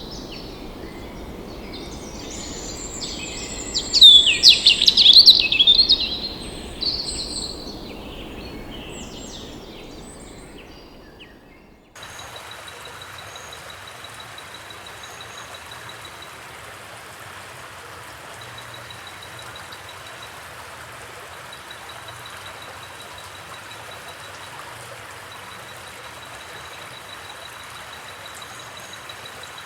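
Wild birds chirping and singing over a steady background, loudest about four to six seconds in, then fading away. Near the middle it switches abruptly to a steady rush of running water, with a faint thin high tone repeating on and off above it.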